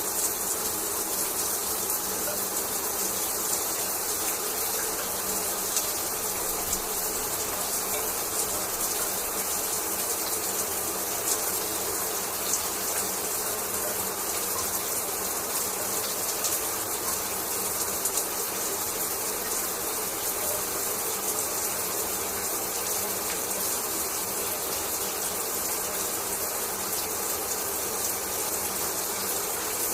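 Shower running: a steady spray of water falling and splashing.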